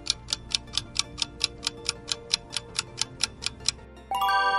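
Clock-ticking countdown sound effect, about five even ticks a second, that stops near the end and gives way to a short, bright chime ringing for under a second, marking time up.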